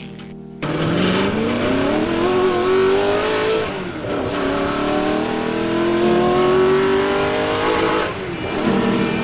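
Car engine accelerating through the gears: it starts suddenly, its pitch climbs, drops at a gear change about four seconds in, then climbs again and holds.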